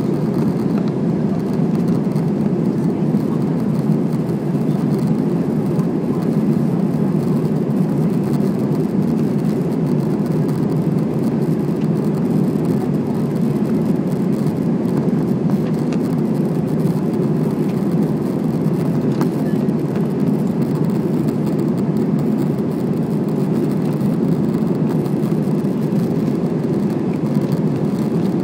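Steady cabin drone of an Airbus A320 in flight, heard from inside the passenger cabin: the low, even noise of the jet engines and the air rushing past the fuselage.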